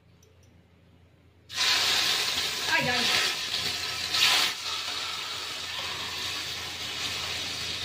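Hot oil sizzling in a frying pan as slices of raw meat are laid in with tongs. The sizzle starts suddenly about one and a half seconds in and flares louder for a moment around four seconds, as more pieces go in.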